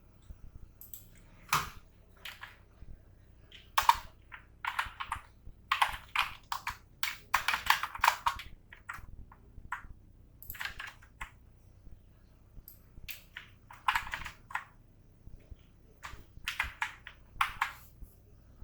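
Computer keyboard typing in irregular bursts of keystrokes, with pauses of a second or two between bursts.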